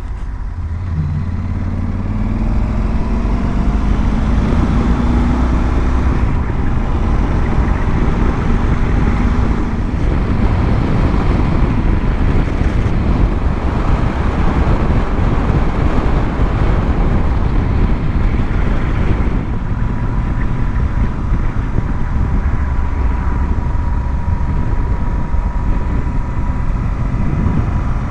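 2012 Yamaha Super Ténéré's parallel-twin engine pulling away, its pitch rising over the first several seconds. Then it runs on at road speed under steady rushing wind and road noise.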